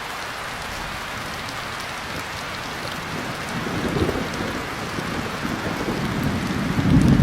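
Steady rain pattering, with low rolling thunder rumbles swelling in about halfway through and loudest near the end.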